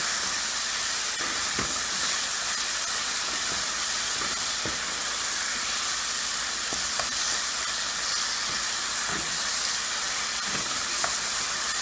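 Onion-tomato masala with spice powders frying in a pan, a steady sizzle with a few faint taps now and then.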